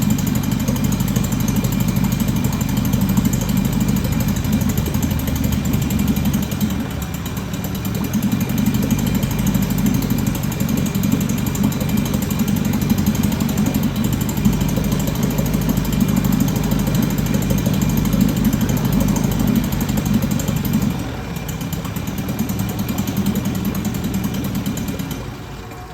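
Old 5.5-horsepower two-stroke outboard motor running with its lower unit in a bucket of water on its first start, unsteady and dropping off twice before falling away near the end. This is about all it can do: a motor that runs but needs carburetor work, with a carb kit on order.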